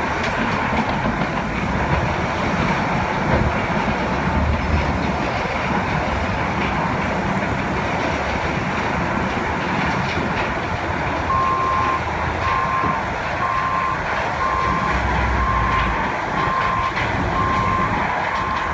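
Diesel engines of heavy earthmoving equipment running steadily. From a little past halfway, a backup alarm beeps at an even pace, about one beep a second: a machine reversing.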